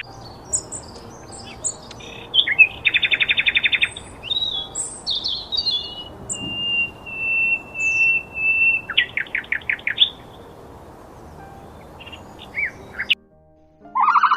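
Songbirds singing: a mix of quick high chirps, two bursts of rapid trilling and a long steady whistled note, cut off suddenly near the end.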